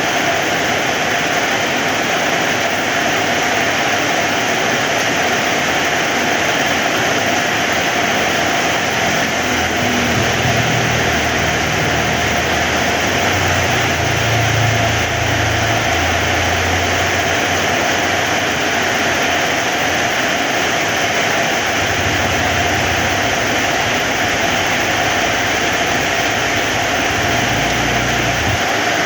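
Heavy rain falling steadily, a dense even hiss. A low rumble swells in about nine seconds in, fades, returns around twenty-two seconds and stops shortly before the end.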